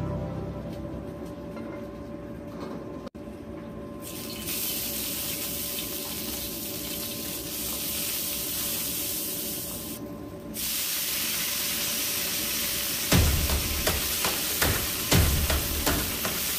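Garlic frying in hot oil in a wok, a steady sizzling hiss. About three-quarters of the way in, loud knocks and clatter come as cabbage and carrot go into the wok.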